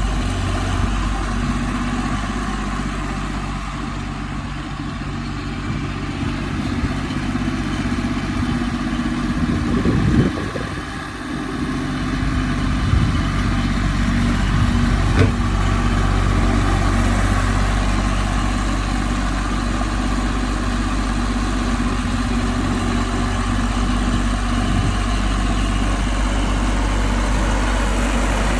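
Ford 1310 tractor's three-cylinder diesel engine running steadily, with a brief change in engine speed about ten seconds in.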